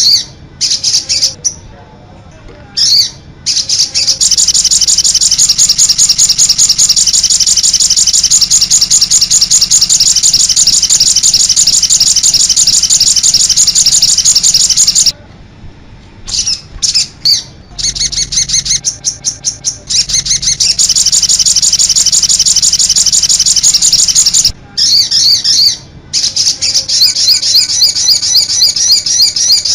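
Songbird song in fast, high-pitched trills: very rapid repeated notes that run on for many seconds at a time, broken by a few short pauses, then start up again.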